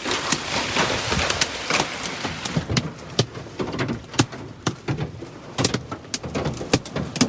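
Hailstones pelting a car's body: a dense clatter of sharp, irregular knocks over the hiss of rain, becoming sparser, more separate cracks after about three seconds.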